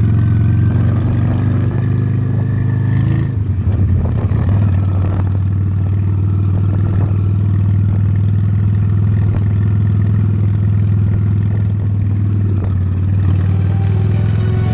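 Honda Steed motorcycle's V-twin engine running steadily while riding, its note dropping briefly about three seconds in, as at a gear change, then holding steady.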